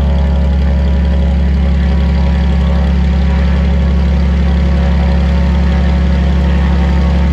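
Beechcraft Bonanza's six-cylinder piston engine and propeller running steadily at low taxiing power: a deep, even drone that holds unchanged.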